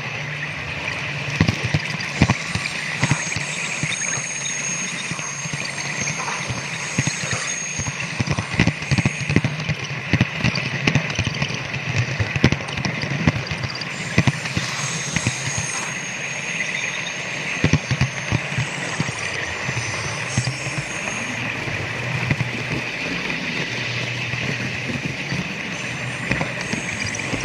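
Model train running around a layout: a steady running noise with irregular clicks of the wheels over rail joints, and a thin high whine that comes and goes.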